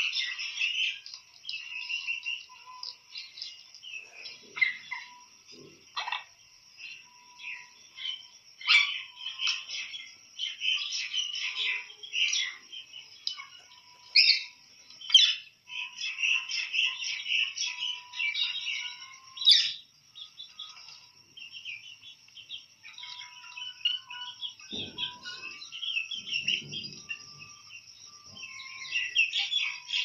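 Birds chirping and twittering, with quick high calls coming almost without a break.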